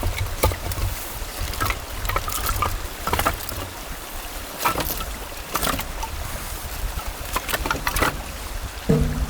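A low steady rumble with irregular sharp clicks and taps scattered through it; pitched musical notes begin near the end.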